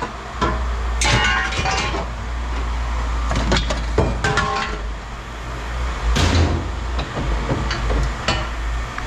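Scrap metal pieces clanking and knocking as they are handled and dropped, a dozen or so irregular impacts, over a steady low rumble.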